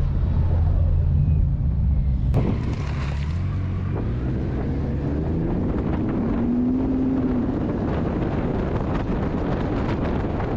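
A vehicle engine running steadily, with wind noise on the microphone. Around the middle there is a brief tone that rises and falls.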